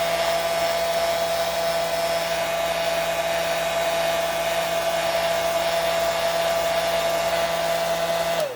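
Hair dryer running steadily, a rush of air with a constant whine, switched off near the end so its pitch drops away as it stops.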